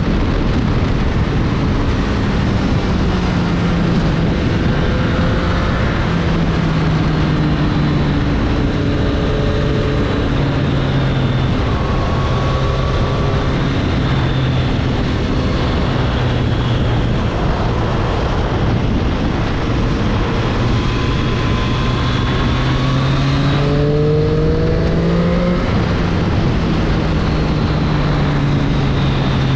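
2022 Triumph Street Triple 765 RS inline three-cylinder engine under way, its pitch rising and falling as the throttle opens and closes. A long climb in revs comes about two-thirds of the way in, then a drop, over a steady rush of wind and road noise.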